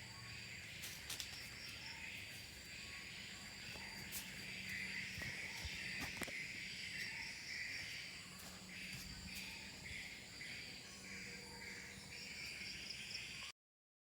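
Faint chorus of insects such as crickets chirping in a steady, pulsing drone, with a few light clicks; it cuts off abruptly near the end.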